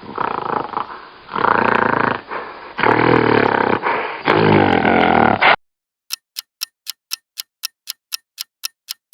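Gorilla vocalizing in loud bouts, the longest two about a second and a half each, stopping about five and a half seconds in. Then a quiz countdown timer ticks evenly, about four ticks a second.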